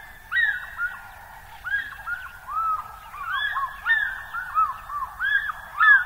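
A group of birds calling: many short, arched notes at slightly different pitches overlapping one another.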